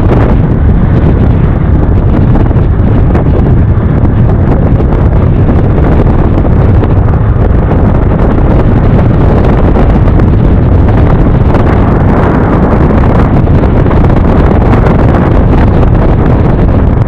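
Steady, loud wind rush over the microphone of a moving motor scooter, with a constant low rumble from the ride.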